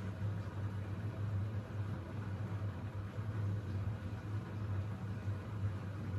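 Siemens iQ700 WG56B2090 front-loading washing machine running mid-cycle: a steady low hum that swells and eases a little, with a soft, even hiss above it.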